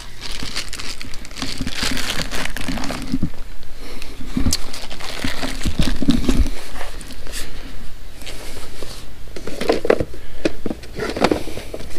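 Merchandise being handled and shifted around on booth shelves: irregular crinkling and rustling with scattered knocks.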